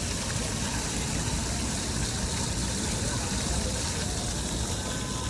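Steady rumble and hiss of a running vehicle, unchanging throughout.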